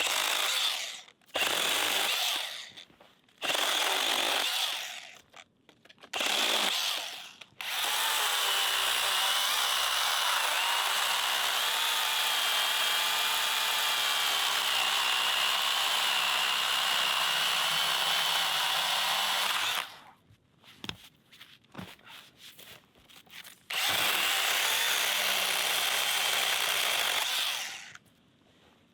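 Handheld electric power tool running in several short bursts, then one long run of about twelve seconds and another of about four, its motor pitch wavering slightly as it works under load.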